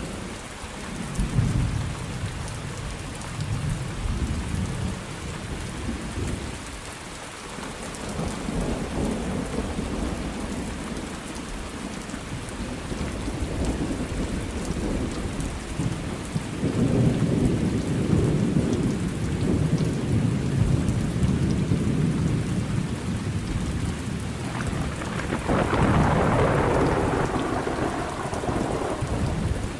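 Thunderstorm: steady rain falling, with rolling thunder rumbling low several times and a louder, closer peal of thunder near the end.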